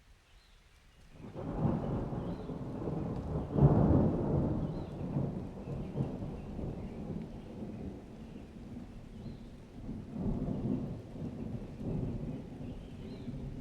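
Thunder with rain: a long, low rolling rumble that starts about a second in, is loudest a few seconds in, then rumbles on with further swells.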